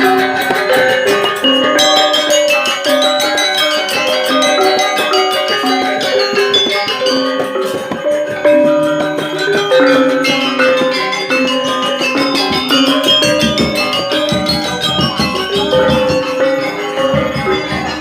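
Balinese gamelan music: bronze metallophones playing quick runs of bright notes over fast, continuous cymbal-like clashing, with deeper percussion filling in during the second half.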